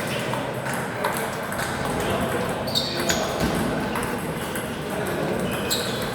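Table tennis balls clicking off bats and tables in an irregular patter of sharp ticks, over a steady background of voices and hall noise.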